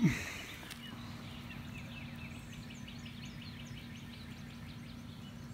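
Outdoor ambience with a songbird singing a fast run of short, high, falling chirps starting about a second and a half in, over a faint steady low hum.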